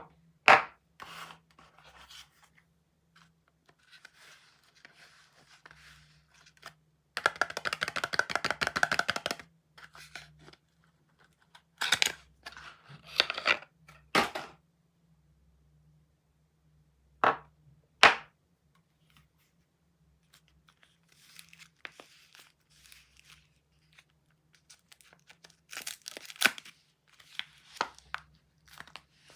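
Soap packaging being unwrapped by hand: scattered snaps and clicks, a long stretch of rapid tearing and crinkling about a third of the way in, and rustling near the end, with quiet pauses between.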